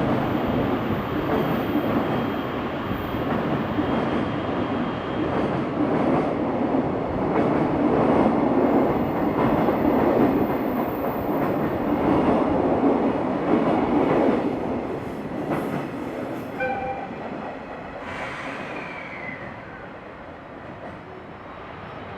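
A train running past on the line, a loud rolling rumble of wheels on rail that holds for about fifteen seconds and then fades away as it recedes.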